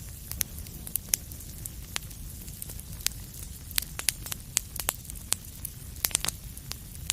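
Wood fire burning in a fireplace: a steady low rumble of the flames with irregular sharp crackles and pops, several a second, some much louder than others.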